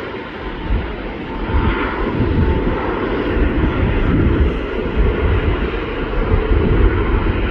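Jet airliner engines running loud, heard as a deep rumble with a hiss above it.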